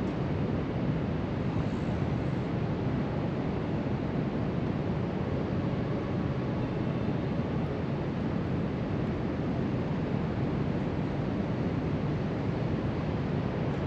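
Steady wash of ocean surf breaking along the shore, heard from a height, mixed with wind on the microphone.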